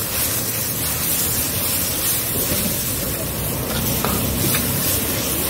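Paneer chili sizzling in a large iron wok over a high gas flame, while a long metal ladle stirs and scrapes through it, with a few light clinks of the ladle against the wok near the end.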